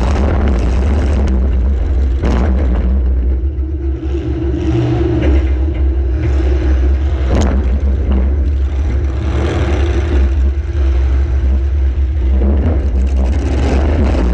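Compact demolition derby car's engine running and revving under a heavy low rumble, with two sharp bangs, about two seconds in and about seven seconds in.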